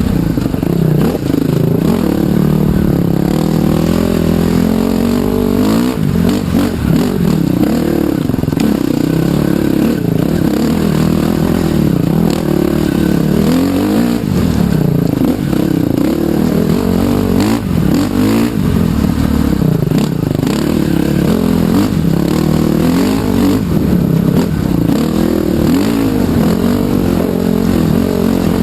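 Trail bike engine running under constant throttle changes as the bike is ridden, its pitch rising and falling over and over without a pause.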